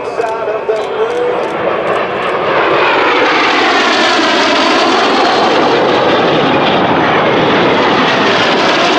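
Aero L-39 Albatros jets, each with a single turbofan, passing low and close. The rushing jet noise swells about two and a half seconds in and then holds loud, with a whine that sweeps down and back up as the aircraft go by.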